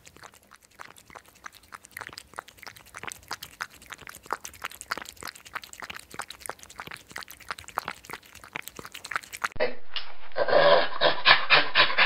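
Hedgehog snuffling and sniffing as it forages, a fast, uneven run of small clicks and snorts. About nine and a half seconds in, a louder, rougher animal sound in short bursts takes over.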